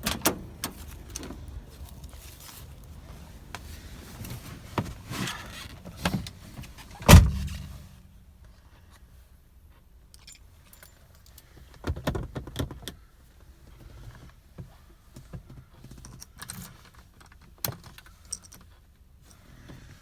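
Car keys jangling and rattling, with scattered clicks of handling and a single loud thump about seven seconds in. The engine is not yet running.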